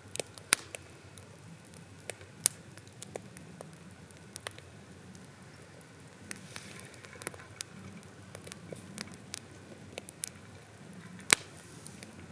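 Wood campfire crackling, with sharp irregular pops over a faint low hiss; one louder pop comes near the end.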